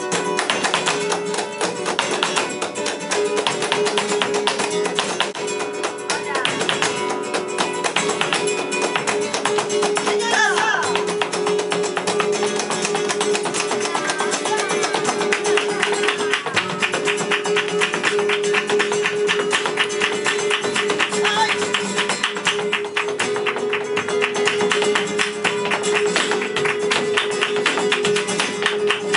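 Live flamenco music in soleá por bulerías: a guitar plays over a dense, steady rhythm of sharp percussive strikes, which thicken over the second half.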